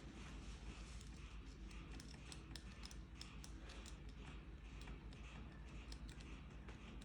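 Faint, irregular light clicks of small hand tools at work, coming thicker from about two seconds in.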